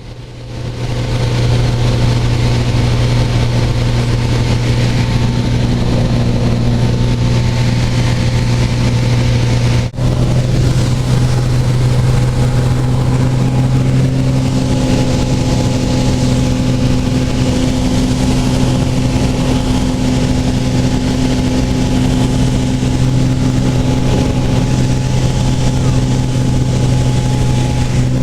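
Light aircraft's piston engine and propeller droning steadily in flight, with a brief break about ten seconds in.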